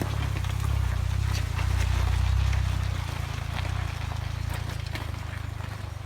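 Vehicle engine running with a low, steady rumble that swells and eases slightly, with scattered light clicks above it.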